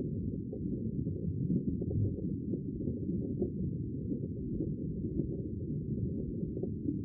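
Steady, muffled low rushing noise with nothing in the higher range, and a few faint soft ticks.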